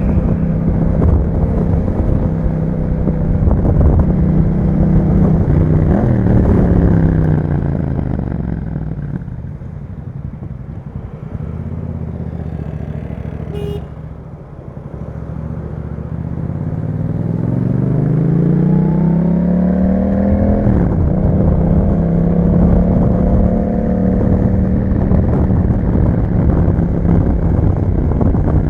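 Yamaha MT-07 parallel-twin engine through an Akrapovic exhaust, heard from the moving bike. It runs steadily, then the revs fall away as it slows and stays low and quieter for several seconds. The revs then climb as it accelerates, drop once at a gear change, and settle into a steady cruise.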